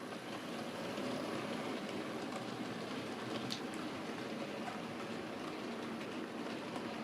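OO gauge Hornby LMS Black 5 model locomotive and its wagons running on the track, a steady rolling rumble with a few faint clicks.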